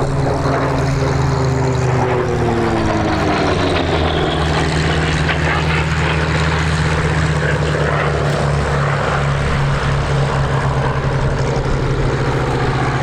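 Grumman F8F Bearcat's Pratt & Whitney R-2800 radial engine on a fast pass: the engine note drops in pitch over the first few seconds as it goes by, then settles into a steady, loud propeller drone.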